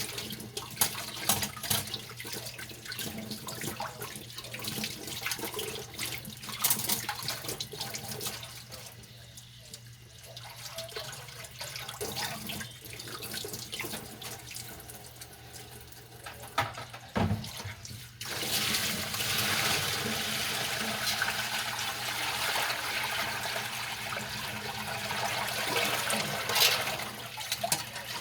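Dishes being washed by hand at a kitchen sink: clinks and scrubbing noises, then about two-thirds of the way through the tap is turned on and water runs steadily into the sink.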